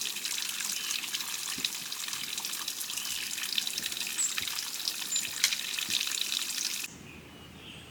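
Close running water splashing and trickling, a dense crackly hiss full of small splashes. It stops abruptly about seven seconds in, leaving a much quieter background.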